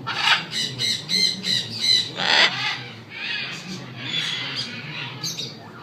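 Macaws squawking: a quick series of short, harsh calls, one louder call a little after two seconds in, then a longer, raspy call.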